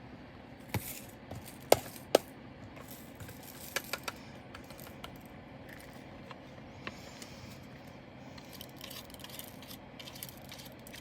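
Small plastic clicks and rattling from handling diamond painting drills and their containers. The scattered clicks include two sharp ones about two seconds in, and the sound settles to faint rustling after that.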